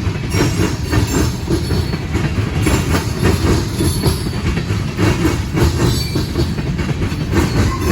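Freight train rolling across railroad diamond crossings: a steady rumble with wheels clacking in a regular rhythm over the crossing gaps, and a few brief high wheel squeals.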